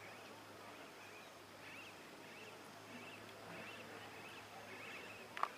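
Faint outdoor ambience with small birds chirping repeatedly, short rising-and-falling calls every half second or so, over a steady low hum. A single sharp click near the end is the loudest sound.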